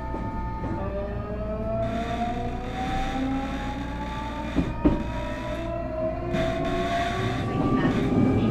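Nankai 8300-series motor car under power: the Hitachi two-level IGBT VVVF inverter and Toyo Denki fully enclosed induction traction motors give a layered whine that climbs slowly in pitch as the train picks up speed, over steady rumble of the running train. Two short knocks come about halfway through.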